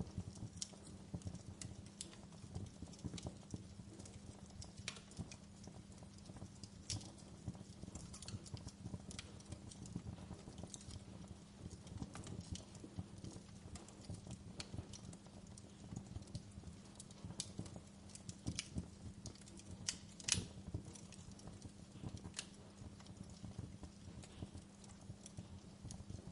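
Wood fire crackling, with frequent irregular sharp pops and snaps over a steady low rumble; the loudest pop comes about twenty seconds in.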